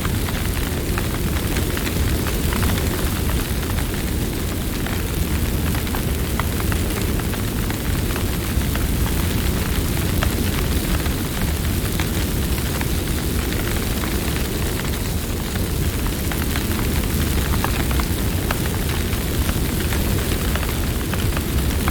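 Campfire burning: a steady low rumble of flames with many small, sharp crackles and pops from the burning wood.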